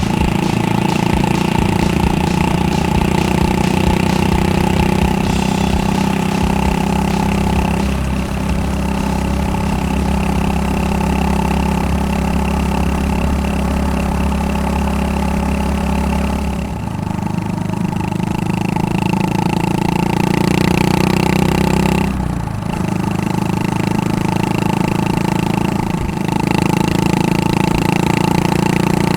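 Honda Super Cub 110's air-cooled single-cylinder four-stroke engine running through a Takegawa P-Shooter aftermarket muffler, a steady exhaust note that shifts in engine speed a few times.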